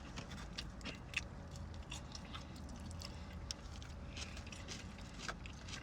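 A person chewing a large mouthful of coleslaw: soft, wet crunching clicks over a low steady hum.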